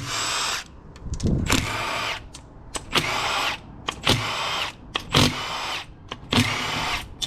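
Power driver running in about six short bursts, each winding down as it stops, while bolts are backed out of the engine cases.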